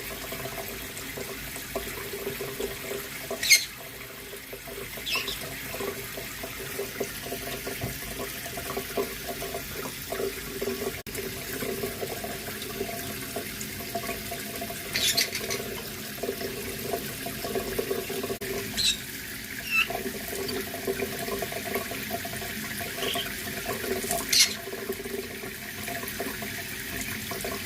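Water tap running steadily into a sink. Five short, high chirps or squeaks cut through it, the loudest about three and a half seconds in.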